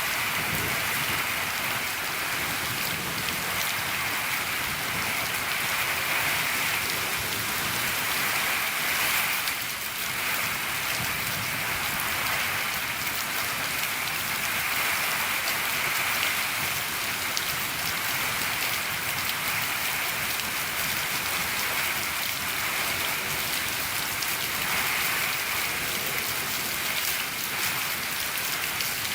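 Steady, heavy rain falling on a shed roof, a dense patter of drops.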